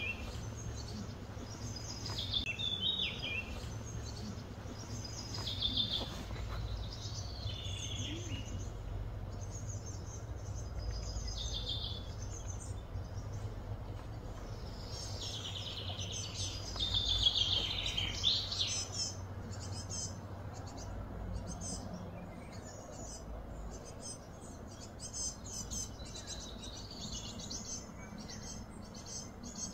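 Birds chirping and calling, busiest about halfway through, over a steady low hum.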